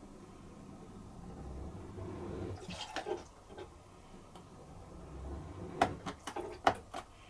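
Water rushing and gurgling inside a Bosch dishwasher during its service test cycle, swelling and then easing. Near the end comes a quick run of sharp clicks.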